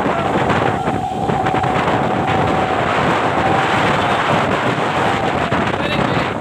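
Truck running past with a steady, loud rush of engine and road noise, and wind buffeting the microphone; a faint wavering tone runs through it.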